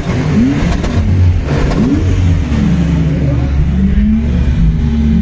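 Sports car engine being revved while standing: a few short blips that rise and fall, then longer sweeps up and down, settling into a higher held rev near the end.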